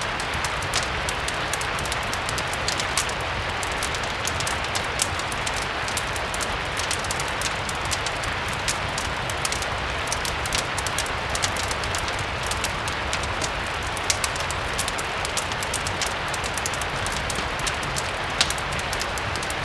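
Steady rain mixed with a crackling wood fire: an even hiss with many small sharp pops scattered through it, a couple of them louder.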